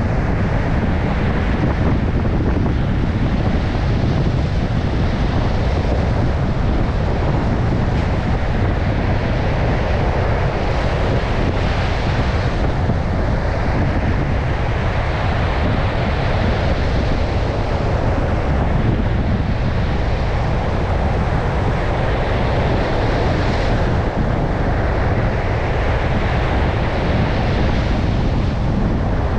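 Storm surf breaking on a beach under strong wind, with the wind buffeting the microphone as a steady heavy rumble. The hiss of the breaking waves swells and fades several times.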